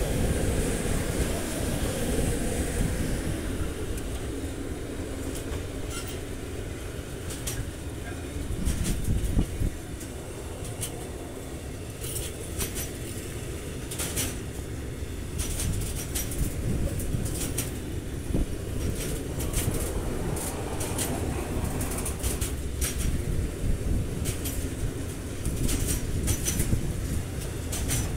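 Intermodal freight train rolling past close by: the two Siemens Vectron electric locomotives go by at the start, then a long run of wagons loaded with semitrailers and swap bodies. A steady rumble of wheels on rail, with clusters of sharp clicks as wheelsets cross rail joints.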